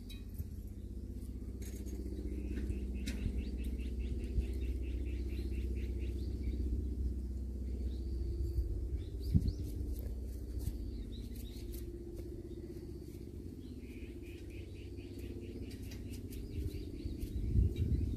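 Outdoor garden ambience with a steady low rumble, over which a bird gives a rapid chirping call of quick, evenly repeated notes, once a couple of seconds in and again near the end.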